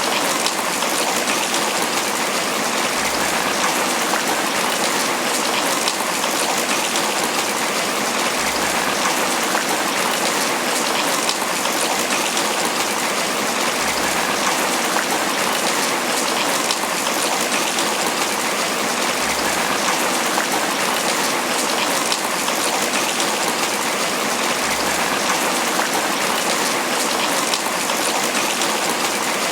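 Steady rain pattering on broad banana leaves, an even downpour with no let-up.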